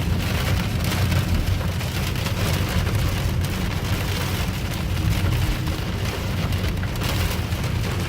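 Rain pouring on a moving car's roof and windshield: a steady, dense hiss over a constant low rumble from the car.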